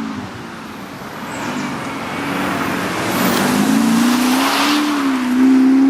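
Audi 3.0 BiTDI twin-turbo V6 diesel engine running: its note drops and quietens just after the start, then climbs again from about halfway and holds high near the end.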